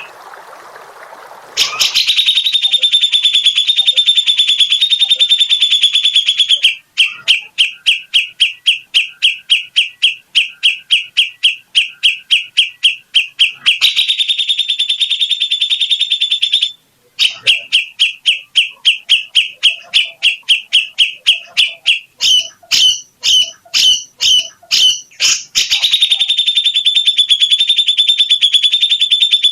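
A songbird repeating rapid, evenly spaced, high notes in long runs, with brief breaks and a looser, choppier stretch about two-thirds of the way through. A short hiss comes just before the song resumes at the start.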